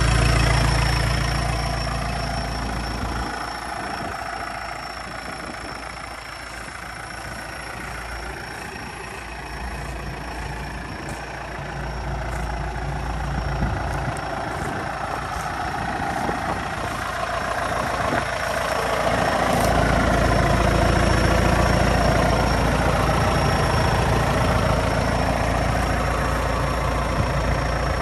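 New Holland TS100A tractor's diesel engine idling steadily. The low engine note fades for a stretch from a few seconds in, then grows loud again about two-thirds of the way through.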